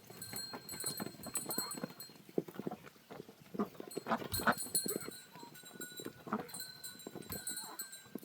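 Farmyard animal sounds: short knocks and animal calls scattered throughout, with bursts of high repeated chirping over the top.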